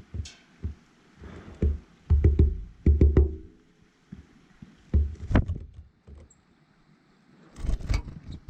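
A series of irregular dull knocks and thumps close to the microphone, in clusters: several between about two and three and a half seconds in, two around five seconds, and more near the end.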